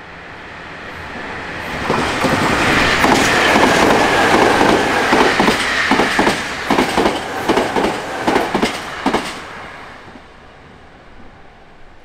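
Stainless-steel electric commuter train passing at speed. It builds up, then its wheels clack over the rail joints in a quick irregular run with a falling whine, and it fades away after about nine seconds.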